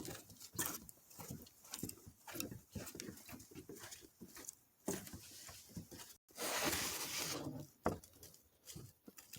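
Footsteps and rustling on a trail, irregular soft thumps about two to three a second. About six seconds in, a brief dropout is followed by a louder burst of hissing noise lasting just over a second.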